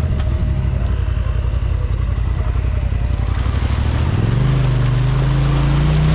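Side-by-side UTV engine running steadily, its pitch rising about four seconds in and then holding at the higher speed.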